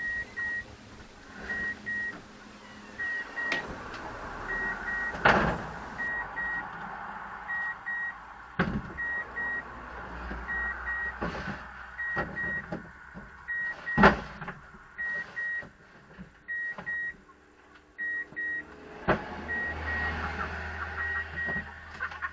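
Electronic warning beeps, two short high beeps about every second and a half, going on without a break. Several loud knocks and thumps fall among them, the loudest about two-thirds of the way through.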